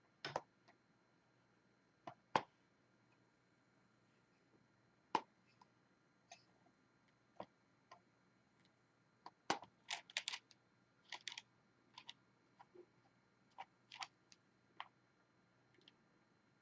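Scattered small sharp clicks and taps of diamond painting: the drill pen picking up resin drills and pressing them onto the canvas, with a quicker run of clicks about ten seconds in.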